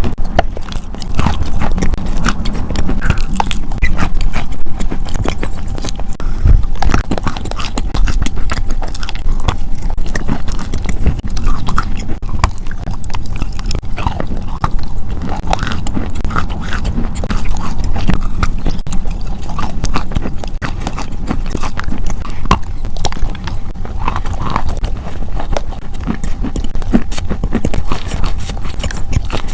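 Close-miked chewing and biting of crunchy food: a dense run of irregular crisp crunches and mouth clicks.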